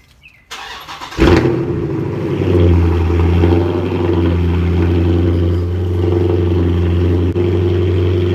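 Car engine started: a short crank, then it catches about a second in and settles into a steady, deep idle.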